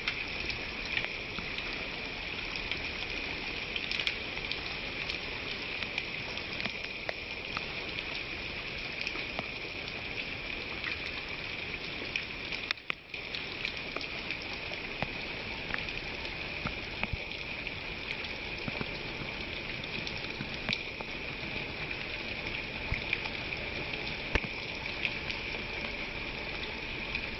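Steady rain falling, a constant hiss with scattered sharp ticks of individual drops striking a surface. The sound briefly drops out about halfway through.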